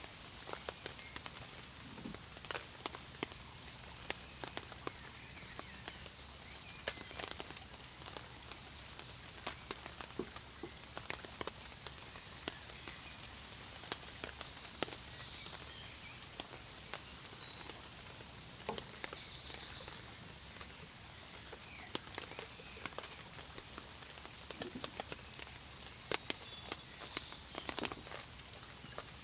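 Steady rain with irregular, sharp drops tapping, the drops standing out above the hiss. High, rapidly pulsed chirps come in a few times from the middle onward.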